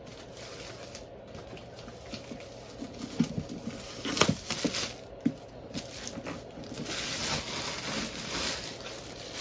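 Handling a VR headset's cardboard box and its packaging: scattered small clicks and taps, the sharpest about four seconds in, then a crinkling rustle in the last couple of seconds.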